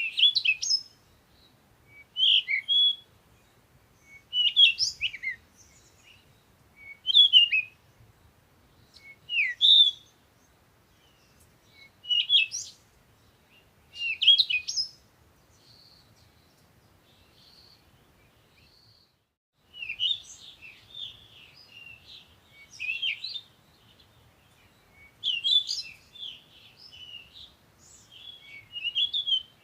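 Songbirds singing in the morning: short, clear song phrases repeated about every two seconds. A brief lull follows with a few faint notes, then a busier run of twittering calls about two thirds of the way in.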